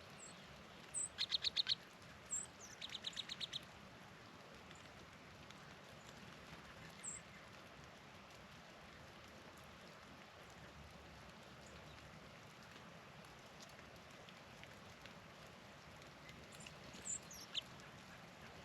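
Small songbirds calling: two quick series of five or six rapid, even notes in the first few seconds, a few scattered high chips, and a short call near the end, over a steady faint hiss.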